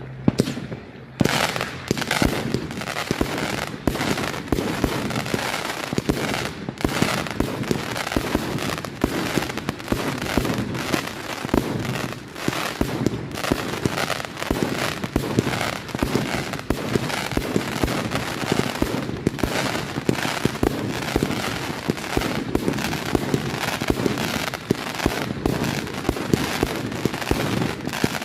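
Fireworks going off in a rapid, continuous barrage of bangs and crackles, starting about a second in and keeping up without a break.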